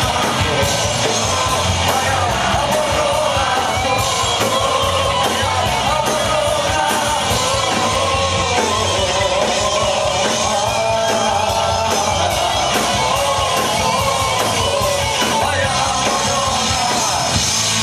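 Live punk rock band playing loud and steady, with electric guitars, bass and drums through a club PA.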